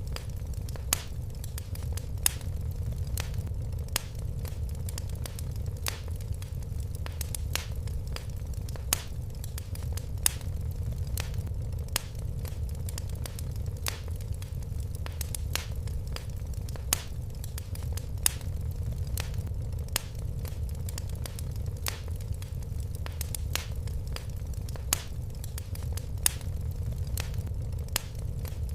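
Fire crackling in a fireplace: a steady low rumble with sharp pops and snaps about twice a second, a few louder than the rest.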